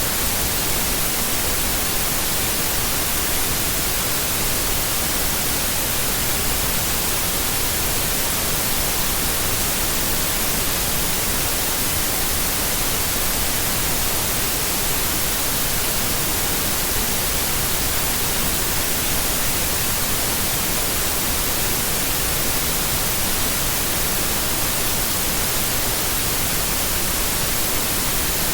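Steady white noise: an even hiss at constant level, strongest in the high treble, with no breaks.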